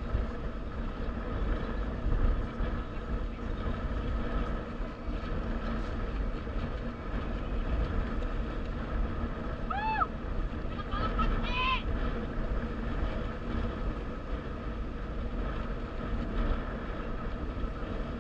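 Motorcycle engine running steadily under heavy wind rumble on the microphone. About ten seconds in, a brief rising-and-falling high call and a short chirping cluster sound over it.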